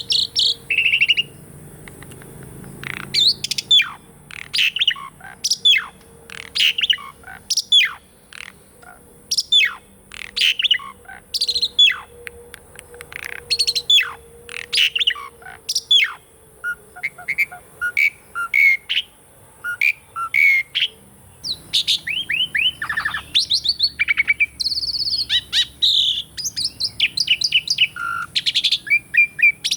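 Jalak suren (Javan pied starling) singing: a fast, varied run of sharp downward-sweeping notes and chatter, turning after about twenty seconds into higher whistled phrases.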